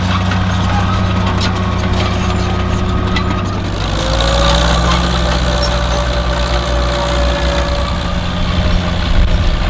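Diesel engine of heavy farm machinery running steadily, its low note changing about four seconds in, when a faint whine comes in for a few seconds.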